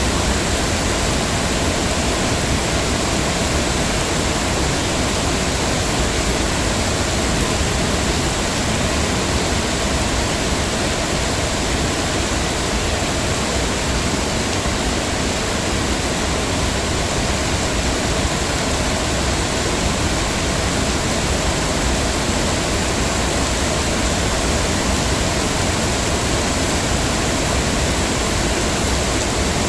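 Heavy rain falling steadily, an even hiss with no single drops or other events standing out.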